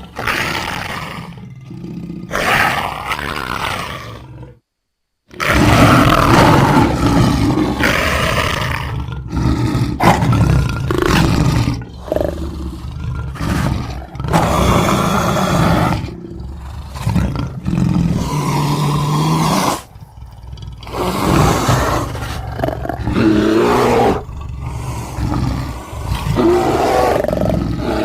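A run of loud animal roars and growls from a sound-effect compilation, one after another, with a brief silent break about five seconds in.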